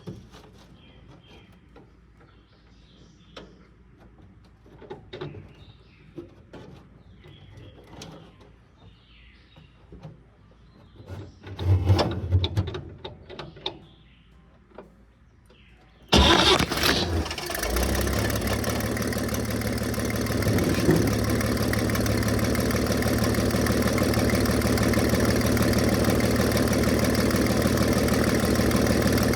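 The 1950 Chevrolet 4400 dump truck's Stovebolt six-cylinder engine starting after several quiet seconds of small clicks and knocks, with a brief low rumble partway through. About halfway in the engine catches with a sudden loud burst, then settles within a couple of seconds into a steady idle.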